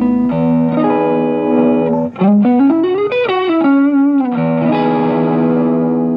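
Electric guitar played through a NUX Cerberus multi-effects pedal: held notes, then a quick lead run up and down with string bends and vibrato in the middle, settling back into sustained notes that ring on.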